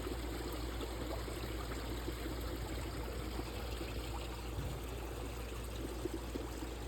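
Water running steadily from a partly frozen koi pond waterfall, flowing under the ice and over its top.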